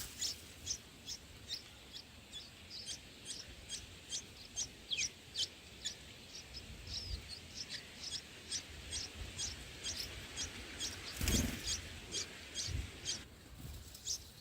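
Bulbuls at the nest chirping: a steady run of short, high chirps, about two or three a second. About 11 seconds in there is a brief rustling burst.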